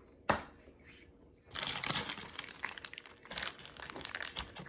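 A single sharp click, then from about a second and a half in, a continuous crinkling and crackling of paper food packaging being handled and crumpled.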